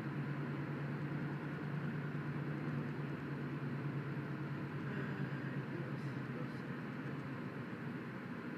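Steady vehicle noise heard from inside the car through a dashcam microphone: engine and tyre noise with a constant low hum.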